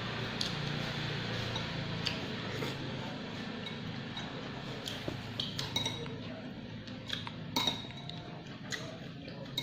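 Spoon clinking and tapping against a bowl of bakso while eating, an irregular scatter of light clinks with a few sharper ones in the second half.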